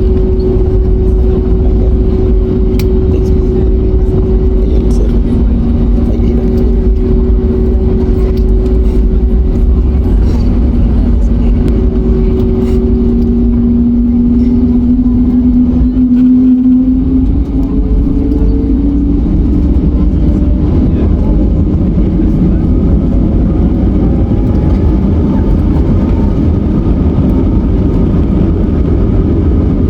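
Airbus A321neo's Pratt & Whitney geared turbofan engines heard from inside the cabin: a loud, steady rumble with whining tones that rise in pitch past the middle as the engines spool up.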